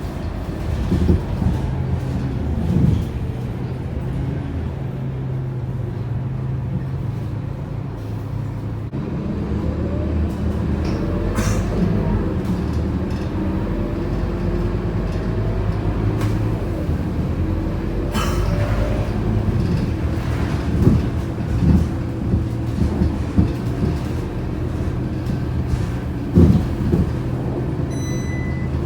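On-board sound of a Scania K230UB bus's five-cylinder diesel engine, running low and steady, then pulling away about nine seconds in, its pitch climbing in steps as the automatic gearbox changes up. Body rattles and knocks come through the cabin, and a short electronic beep sounds near the end.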